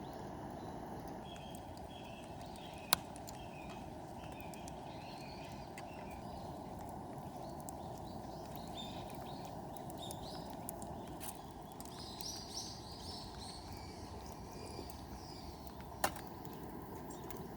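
A steady low rushing noise with small birds chirping over it, and two sharp clicks: one about three seconds in and one near the end.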